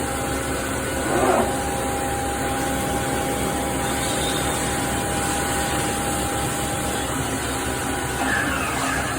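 CNC milling machine cutting SS400 steel, a steady machining noise with a constant spindle tone. There is a brief louder scraping swell about a second in and another near the end.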